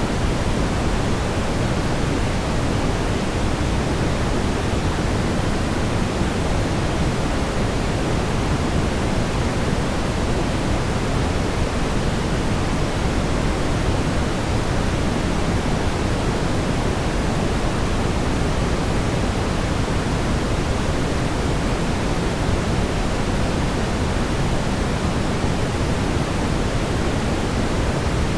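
Steady brown noise: an even, unchanging rumbling hiss, heaviest in the low end.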